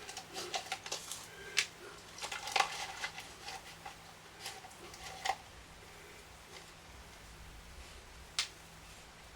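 Small screws and microphone parts being handled on a workbench: a few scattered sharp clicks and light taps, the last one late on.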